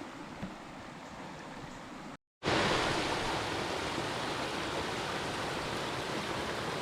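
Quiet outdoor background with a few faint clicks, then, after a brief cut, the steady rush of a stream's flowing water.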